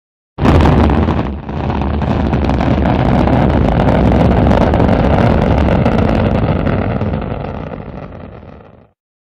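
Rocket launch roar: a heavy, deep rumbling noise that starts abruptly, dips briefly about a second in, then holds steady and fades away near the end.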